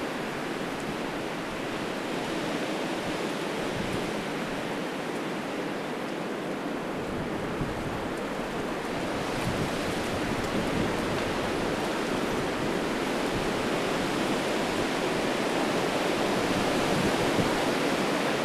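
Gusting high wind rushing through trees, a steady wash of noise that grows louder over the second half.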